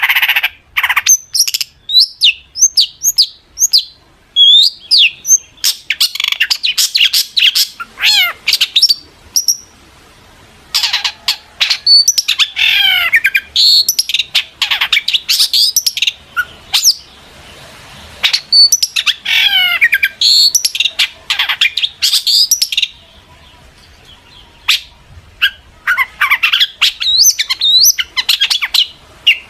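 Long-tailed shrike singing a fast, varied song of chirps, chatters and gliding whistles in dense runs, with a few short pauses between them.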